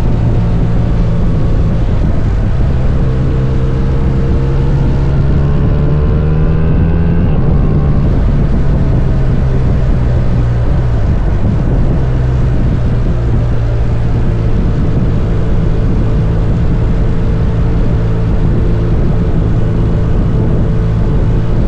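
Motorcycle engine running at a steady cruise under a rush of wind and road noise. Its revs climb for a few seconds and then drop about eight seconds in.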